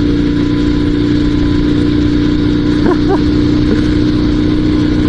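Dnepr 16 sidecar motorcycle's flat-twin engine running at full throttle in third gear, holding a steady pitch. The engine is struggling, and the rider suspects a burned clutch.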